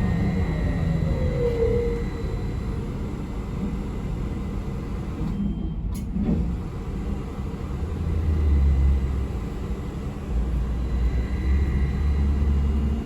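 Steady low rumble inside a moving city bus on the road, swelling and easing as it drives, with a brief squeal about a second and a half in and a short click near the middle.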